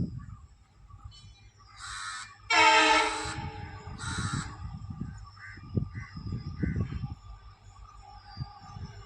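Crows cawing several times, with one louder, harsh, pitched blast lasting under a second about two and a half seconds in, over a low outdoor rumble.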